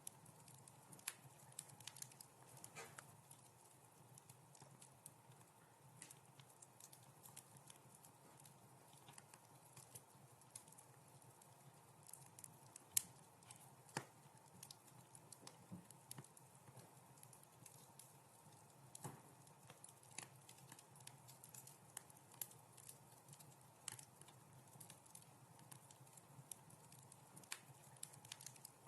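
Wood fire crackling softly: irregular sharp pops and snaps over a faint steady hiss, with one louder pop about 13 seconds in.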